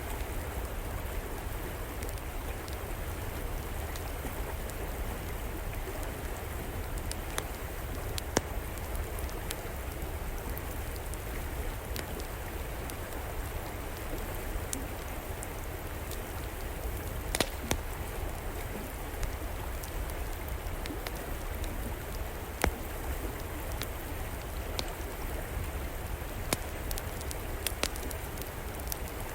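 River water flowing steadily, with an outdoor wood fire crackling over it in scattered sharp pops, a few a second apart.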